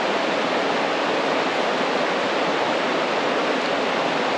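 Steady rushing of river water pouring over small waterfalls and through fast, shallow current.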